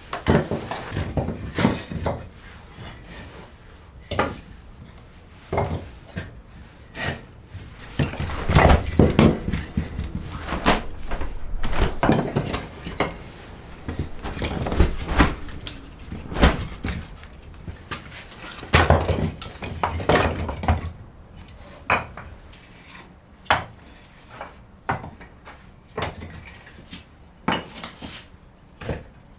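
Irregular knocks and thunks, with a few longer stretches of rustling and scraping, in a small wooden room.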